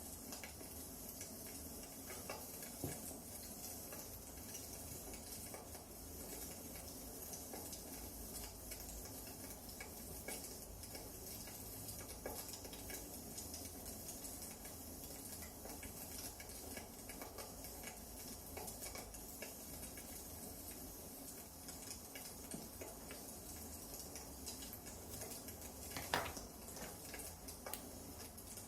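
Wood fire crackling: a steady hiss with many small scattered snaps and one sharper pop near the end.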